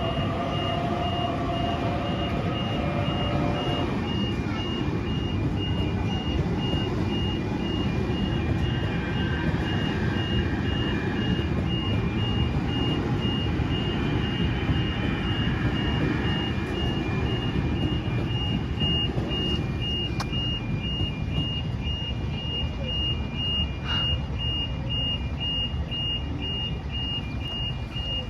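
Level crossing warning bell sounding as a rapid, continuous electronic beeping, over a steady low rumble of vehicles.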